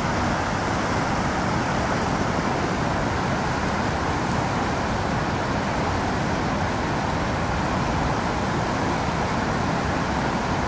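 Victoria Falls' waterfall running as a steady, even roar of falling water.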